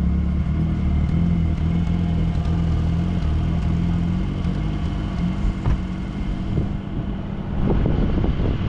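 Off-road 4x4's engine running steadily, its pitch wavering slightly. Near the end come a cluster of knocks and rattles.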